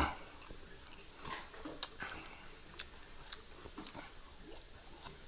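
Faint, close-miked mouth sounds of a man eating French fries: soft scattered clicks and smacks of chewing.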